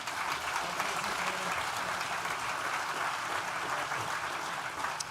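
Audience applauding steadily, a dense spread of clapping hands.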